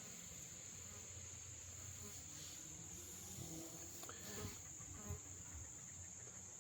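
Faint, steady high-pitched insect chorus, with a few soft low sounds about halfway through.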